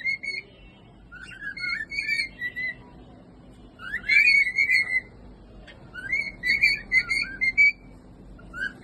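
Pet cockatiel whistling its song: short whistled phrases, each opening with a rising note and then warbling on one pitch, repeated about four times with brief pauses between them.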